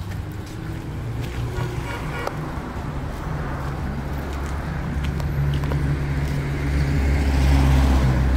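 A motor vehicle engine running with a steady low hum that grows louder through the second half, over roadside street traffic.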